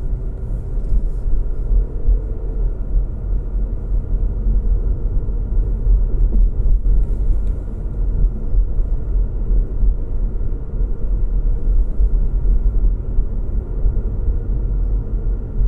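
Car driving steadily on a road: a constant low rumble of road noise and engine hum, with a faint steady tone above it.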